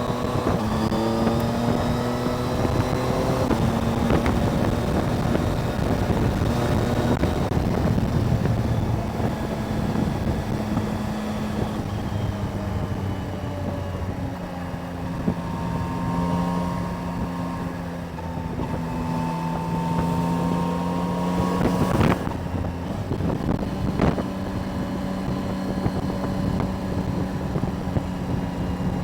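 Yamaha Tracer motorcycle engine running on the road, rising in pitch as it accelerates at the start and then holding steady, with wind buffeting a helmet-mounted microphone. Two sharp clicks come late on.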